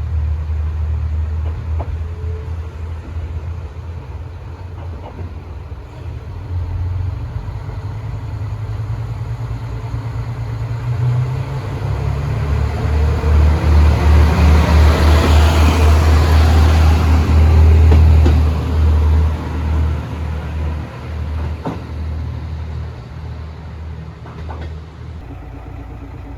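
Diesel railcar running with a deep, steady engine hum that swells louder and noisier about halfway through, peaks, then eases off.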